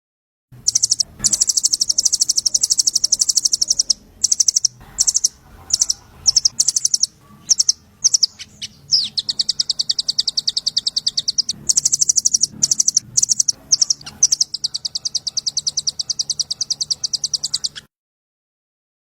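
A small songbird's rapid, high-pitched ticking trill in long bursts broken by short gaps. It is an edited bird-song training recording that cuts in and out abruptly.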